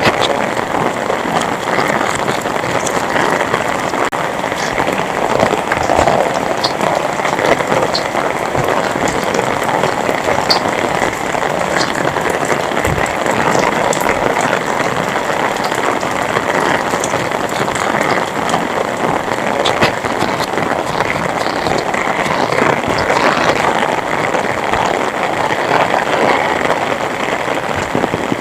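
Heavy rain pouring steadily: a dense, even hiss with scattered sharper drop ticks.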